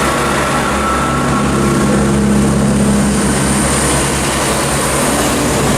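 Class 166 diesel multiple unit's underfloor diesel engines running steadily at close range, a low engine drone that grows a little stronger around two seconds in.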